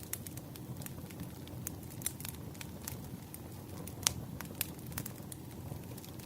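Wood campfire burning, crackling with irregular sharp pops and snaps over a low steady rush of the flames. One pop about four seconds in is louder than the rest.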